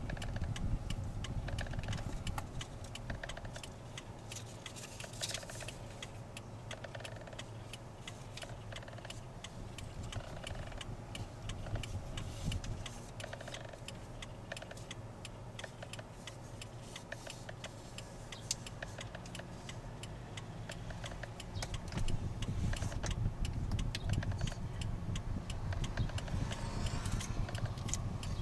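Lexus RX450h steering wheel making many small, irregular ticks and clicks over the low steady rumble of the car, a little louder in the last few seconds. It is a steering-wheel noise that the manufacturer says every RX450h shares, with no fix yet.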